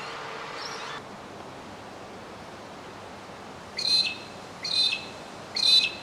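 A bird calls three times, each call short and harsh and dropping in pitch to a brief held note, a little under a second apart. Before that, in the first second, faint birdsong plays over a hiss that cuts off.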